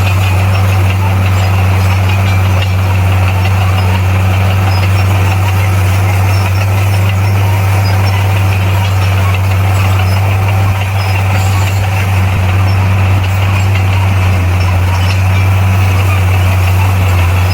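Komatsu D58P bulldozer's diesel engine running steadily at an even pitch, with a deep hum and a rattling mechanical noise over it.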